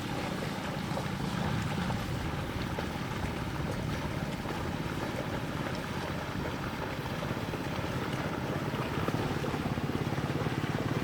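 A small engine running steadily with an even low pulse, with wind on the microphone.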